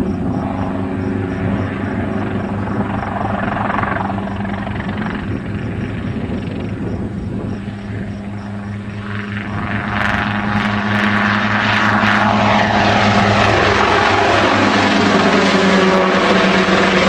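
Helicopter running, its rotor beating steadily over a low engine hum, growing louder and fuller from about ten seconds in.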